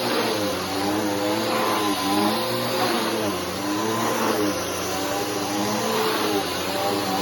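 Bissell Powerforce Helix 3313 upright vacuum cleaner running, its motor whine dipping and rising in pitch about once a second as it is pushed back and forth over the floor.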